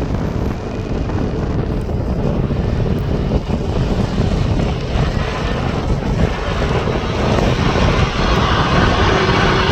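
Airliner engines running, a steady noise that grows louder over the last few seconds as the aircraft comes closer, over a low wind rumble on the microphone.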